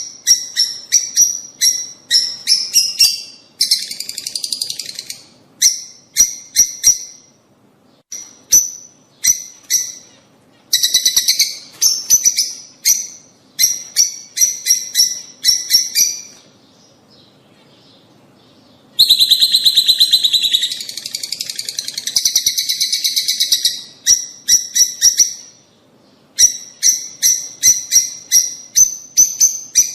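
Lovebirds calling: quick runs of sharp, high chirps alternating with dense chattering stretches, with a lull of a couple of seconds a little past halfway. The loudest, densest chatter comes just after that lull.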